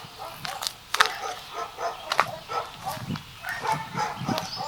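Dogs barking in a run of short, irregular barks, with a few sharp clicks among them.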